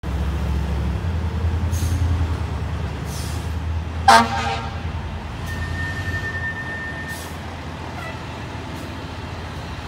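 Fire apparatus engine running with a steady low rumble, and one short, loud air-horn blast about four seconds in.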